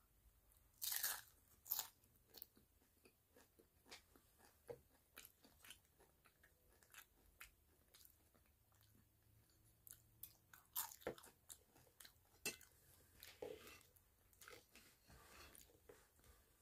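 A person biting and chewing crunchy tostada shell with toppings, a string of crisp crunches. The loudest come about a second in and again around eleven seconds in.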